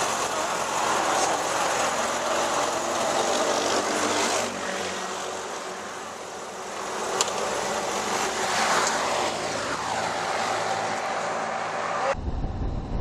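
Motor traffic on the road: engines running, with a vehicle passing by and falling in pitch a little past the middle. Near the end the sound changes to a low rumble of wind on the microphone.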